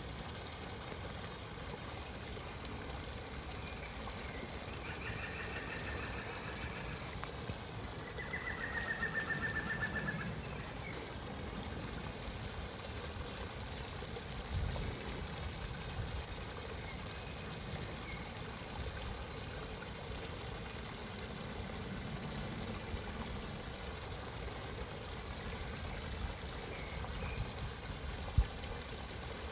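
A stream running steadily, with a bird singing two short, rapid trills about five and eight seconds in.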